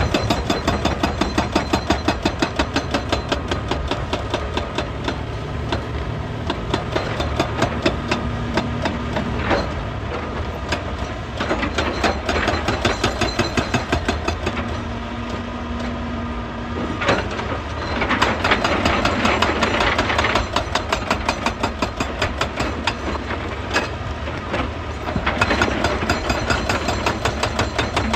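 Hydraulic rock breaker on an excavator hammering rock in rapid, evenly repeated blows, several a second, over the steady running of the excavator's diesel engine. Two louder rushes of grinding noise come in the later part.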